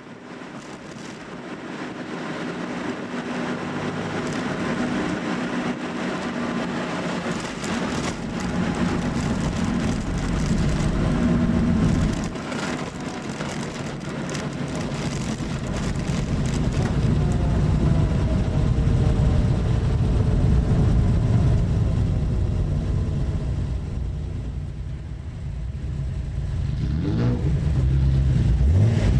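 Vintage Nissan car's engine intake and exhaust on the road, pulling and building in speed, dropping off suddenly about twelve seconds in as if for a gear change, then pulling again and revving up sharply near the end.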